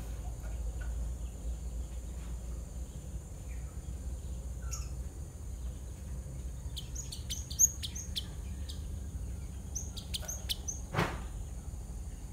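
Java sparrows chirping: quiet at first, then a run of short, high chirps in quick clusters from about halfway through, with the loudest chirp a little past the middle. One sharp, louder sound comes near the end, over a steady low hum.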